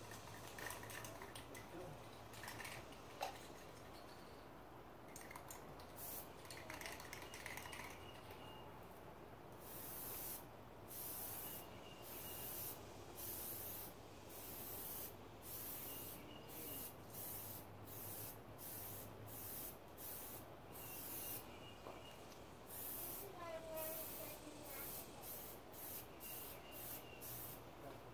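Aerosol can of Plasti Dip glossifier spraying in many short hissing bursts, a few at first and then in quick succession through the second half, laying a gloss coat over black Plasti Dip.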